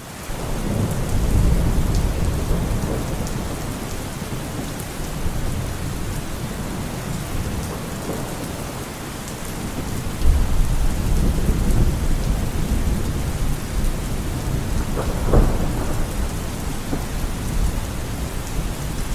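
Thunderstorm: steady heavy rain with rolling thunder, the rumble swelling about a second in and again around ten seconds in.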